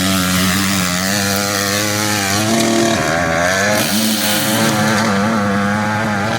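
Dirt bike engine of the 200–250cc class revving hard under load on a hillclimb run. Its pitch holds high, then dips and climbs again twice as the throttle is eased and reopened.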